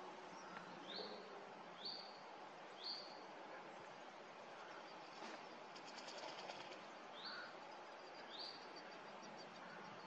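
Faint outdoor ambience with a small bird calling a short, high, rising chirp three times in the first three seconds and twice more near the end. A quick high trill comes about six seconds in.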